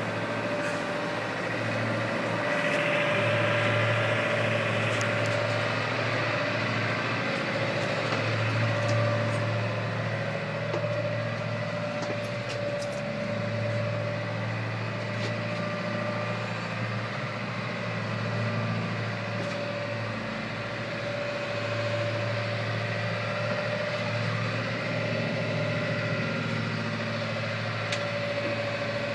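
Steady engine drone with a low hum that swells and eases every few seconds, a steady humming tone above it, and a few faint clicks.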